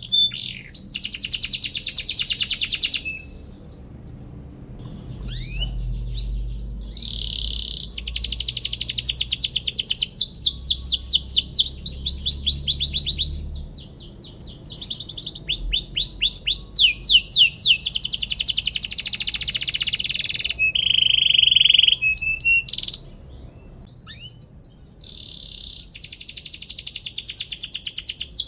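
Domestic canary singing: long rolling trills of rapidly repeated high chirps, in phrases broken by short pauses, with one steadier, lower held phrase a little past the middle.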